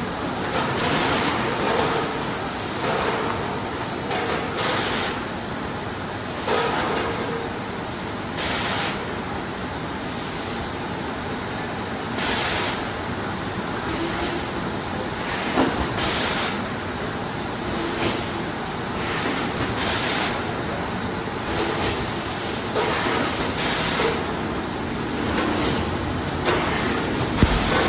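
Fully automatic PET bottle blow-moulding machine running: a steady mechanical noise broken every couple of seconds by short, loud hisses of compressed air, the blow-and-exhaust of each bottle-forming cycle.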